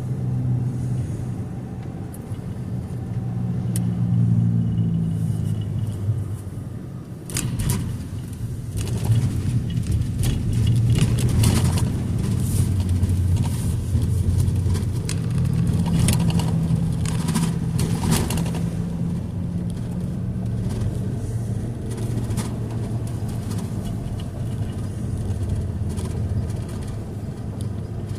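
A car's engine and road noise from inside the cabin while driving, a steady low hum. From about seven seconds in, intermittent knocks and rattles join it.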